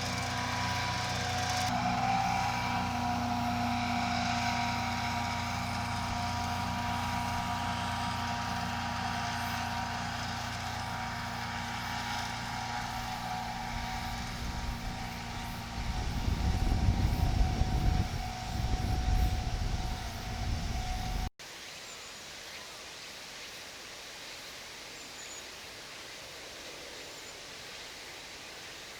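An engine drones steadily with several held tones, joined by a louder low rumble a few seconds before it cuts off abruptly about two-thirds of the way in. After the cut there is only a quiet, even outdoor background.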